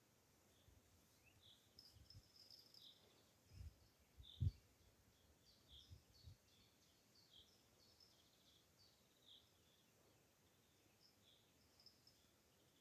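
Quiet outdoor ambience with a faint high chirp repeated about once a second. A few dull low thumps fall in the middle, the loudest about four and a half seconds in.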